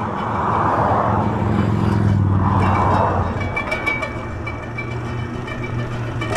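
A motor vehicle's engine running steadily with a low hum. A hiss swells and fades twice in the first three seconds.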